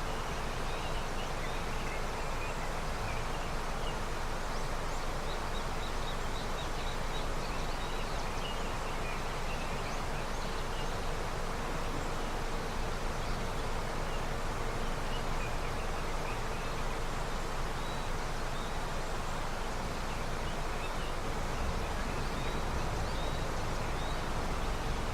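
A river swollen with snowmelt flowing in a steady rush, with small birds chirping now and then over it.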